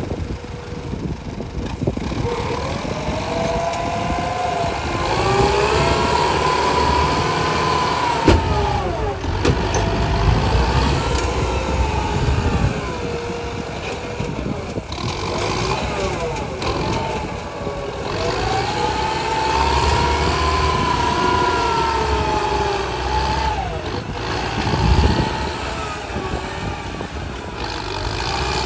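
Truck engine running under load, its pitch rising and falling in long, slow swells twice as it revs up and eases off.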